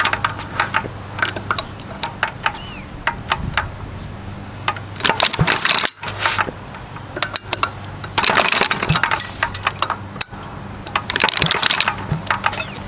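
Fairbanks Morse Z style D engine being spun over by hand and failing to fire: rapid metallic clicking and clattering in several bursts of about a second. It will not catch because it is short of fuel.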